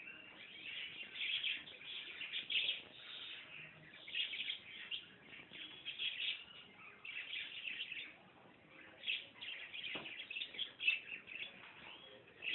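Young puppies squeaking and whimpering in a continuous string of short, high-pitched cries.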